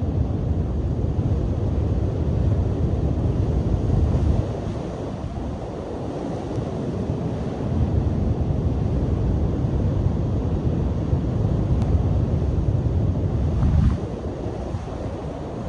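Waves crashing on a beach in strong wind, with the wind buffeting the microphone. The low noise swells in two long surges and drops off suddenly near the end.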